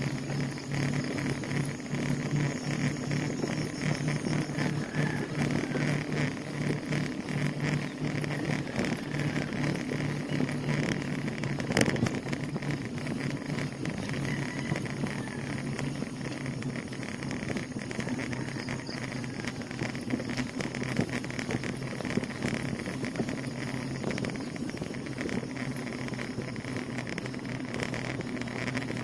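Steady rolling noise of a bicycle ridden along a road, with a low steady hum under it and one sharp knock about twelve seconds in.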